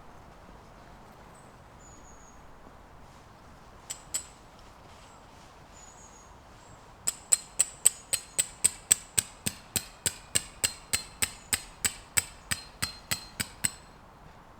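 A hammer striking metal about four times a second for some seven seconds, each blow ringing, as when a steel tent peg is driven into the ground; two single knocks come first, and faint bird chirps sound in the opening seconds.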